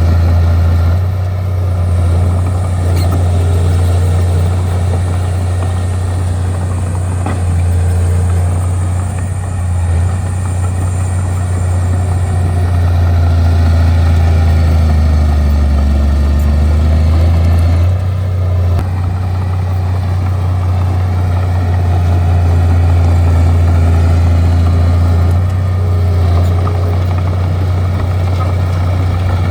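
Bulldozer's diesel engine running in a deep, steady drone, its pitch sagging lower for a few seconds midway before picking back up.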